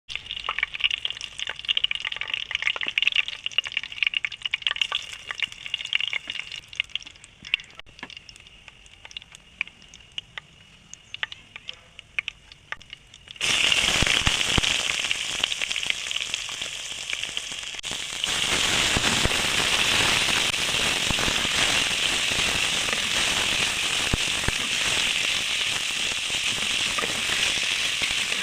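Cooking oil frying in a pan: crackling and popping for the first half, thinning out, then about halfway through a sudden jump to a loud, steady sizzle that grows a little louder a few seconds later.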